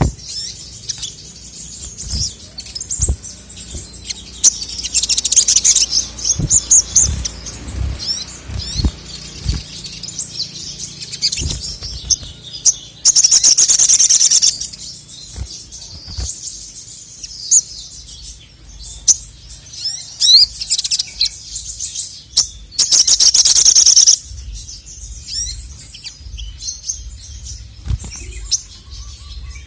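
Male ruby-cheeked sunbird (sogok ontong) singing energetically: quick high chirps and sweeps, broken twice by loud, fast trills lasting about a second and a half, about 13 s and 23 s in. Low short thuds come now and then in between.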